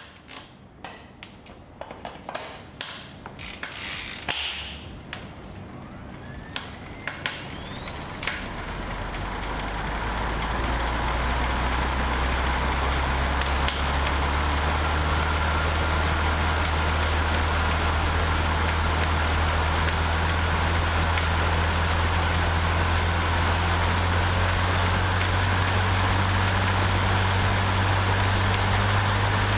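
CycleOps SuperMagneto Pro magnetic bike trainer being pedalled up to speed: a few clicks and knocks at first, then a whine rising in pitch over several seconds that settles into a steady drone with a high whine still slowly creeping upward.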